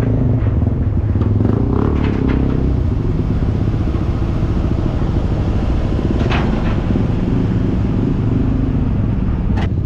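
An engine running steadily with a loud, low drone, with a few brief higher noises over it about two, six and ten seconds in.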